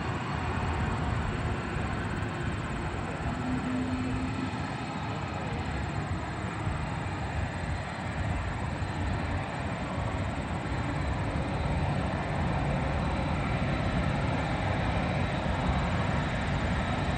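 Four turbofan engines of an Airbus A380 running, a steady jet engine noise that grows a little louder about twelve seconds in.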